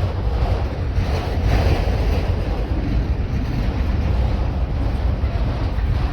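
Freight train rolling past, a steady rumble and rush of wheels on rail with no horn.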